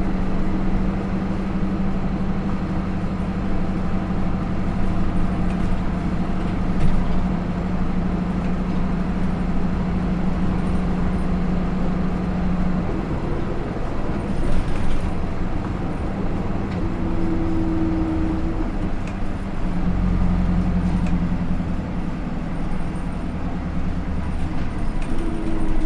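Hino Rainbow II bus running on the road, its Isuzu 4HK1-TCH four-cylinder turbodiesel with Aisin automatic transmission heard from inside the bus. The engine hum holds steady, drops away about halfway through, and comes back a few seconds before the end.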